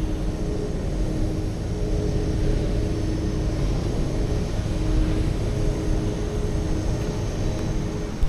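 An engine running steadily: a low rumble with a steady hum over it, and no change in pitch.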